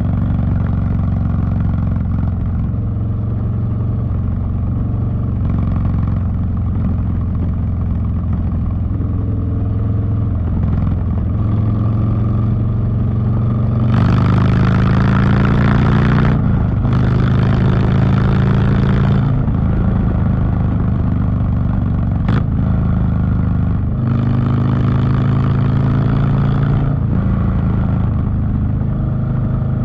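Harley-Davidson Street Bob's V-twin through a TBR 2-into-1 exhaust, cruising steadily. About halfway in it pulls hard twice, the note rising each time with a short break between, as on a gear change. It pulls once more near the end, with a single sharp click shortly before.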